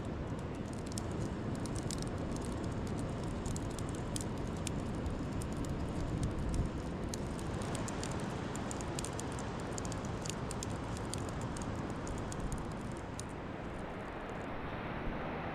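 Steady wind and surf noise with scattered light clicks or ticks, which thin out near the end.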